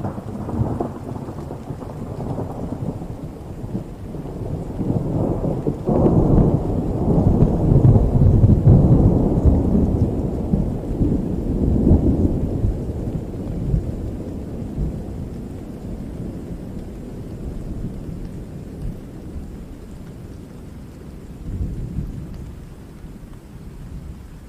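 A long roll of thunder over steady rain: it breaks in suddenly, builds to its loudest about six to twelve seconds in, then rumbles away slowly.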